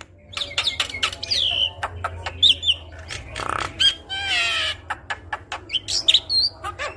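Javan myna (jalak kebo) singing a busy, varied song: gliding whistles, sharp clicks, a harsh rasping note about halfway through and a quick run of chattering notes just after it.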